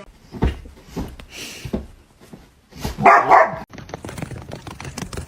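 A dog barking, with one loud bark about three seconds in, after a few short thumps.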